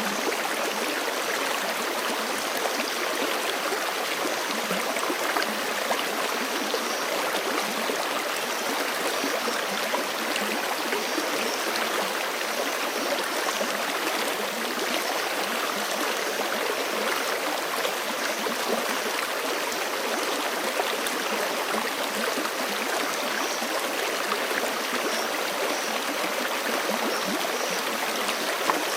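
Forest creek flowing steadily over rocks, a continuous rushing and babbling of water.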